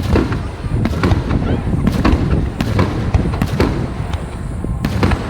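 Aerial fireworks in a finale barrage: many shell bursts and crackles in quick succession, several a second, over a continuous low rumble.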